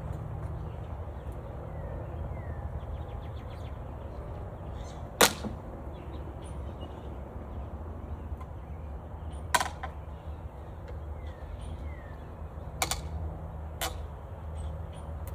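Four sharp knocks a few seconds apart from handling the hive gear, the first the loudest, over a steady low hum.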